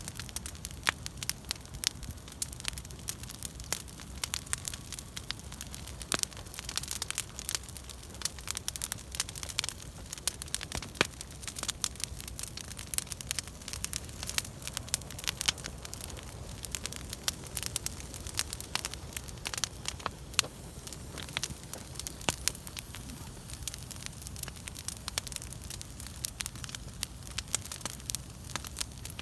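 Bonfire of pruned fruit-tree branches burning, the wood crackling and popping several times a second, some pops sharper and louder than others.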